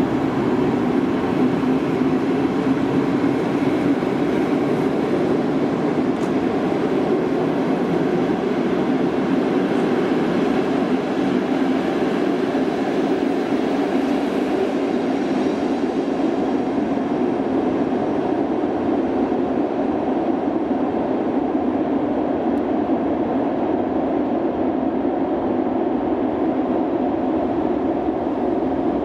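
Steady rail noise in an underground station: a PKP Intercity coach train running along the platform, then an electric locomotive approaching slowly. A steady rumble, with the high hiss thinning out about halfway.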